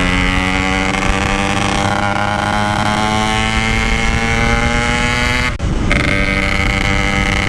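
Yamaha RX-King single-cylinder two-stroke engine through a standard-style 'belek' exhaust, pulling under throttle with its pitch rising steadily. About five and a half seconds in it drops out briefly, as on a gear change, then pulls again at a lower pitch.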